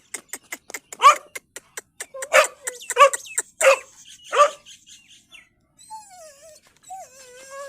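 A dog barking five short, sharp barks over a fast run of ticks, then whining, one thin call sliding down in pitch near the end.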